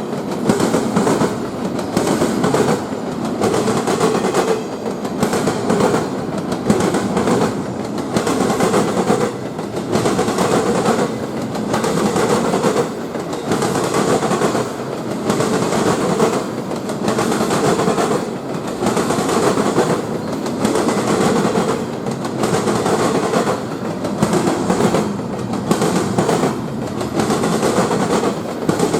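Train passing, its railroad cars rolling by with the wheels clicking over and over on the rails.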